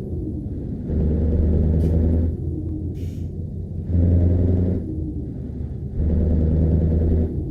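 Scania V8 truck engine raised to a higher, louder run three times for a second or so each, dropping back to a lower idle between. Short hisses of air come between the first two.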